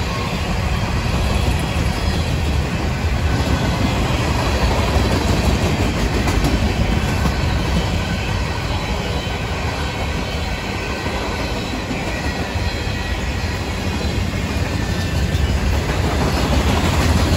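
Freight train rolling past: a steady, continuous rumble of cars going by on the rails.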